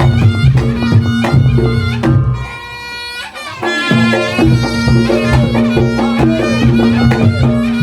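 Reog Ponorogo ensemble playing: a reedy wind instrument holds a droning melody over drums and struck percussion. The drums drop out for about a second a little after two seconds in, then come back.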